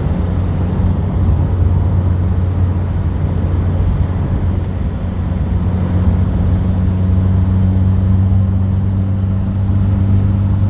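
Car engine running at a steady cruise with road noise, a low even drone heard from inside the moving car; it eases off slightly about halfway through and then pulls again.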